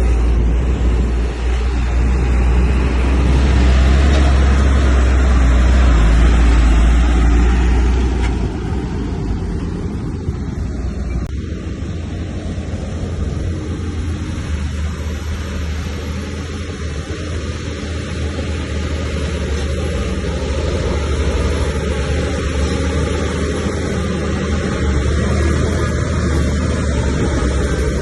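Heavy diesel earthmoving machinery running under load: a deep, steady engine rumble that is loudest for the first several seconds, eases off, then swells again near the end.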